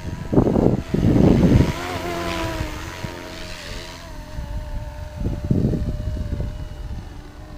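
Radio-controlled 470-size Cobra scale helicopter in flight: a steady motor and rotor whine that wavers slightly in pitch. Gusts of wind buffet the microphone, loudest about half a second to a second and a half in and again near five seconds.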